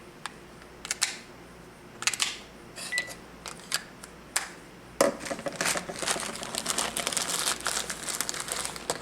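Plastic clicks from a cordless phone handset and its batteries being handled, with one brief high beep about three seconds in; from about five seconds a continuous crinkling rustle, like plastic packaging being handled.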